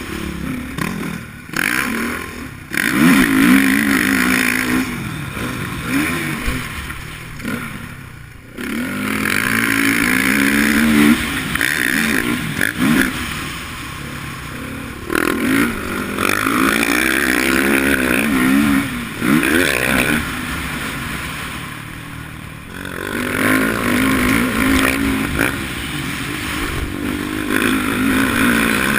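Motocross bike engine revving hard and backing off over and over, its pitch climbing and dropping with each burst of throttle.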